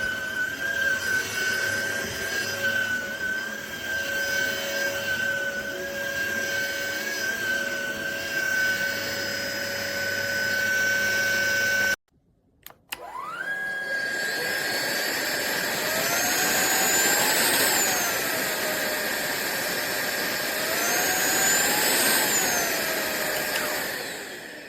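Cordless stick vacuum motor running with a steady high whine. About halfway through it cuts off, then spins up again a second later, and its pitch rises and falls back twice before it fades near the end.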